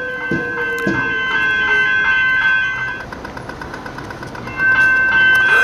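Train crossing the tram square: wheels knocking over the rail-tram crossing and a motor whine slowly falling in pitch, over a steady high ringing tone. A stretch of fast even clicking in the middle, and the sound grows louder near the end.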